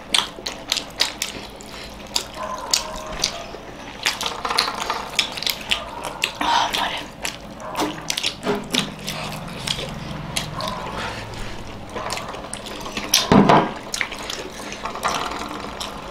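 Close-miked wet chewing and lip-smacking of several people eating momos dipped in sauce: a string of quick moist clicks and smacks, with a louder thump about thirteen seconds in.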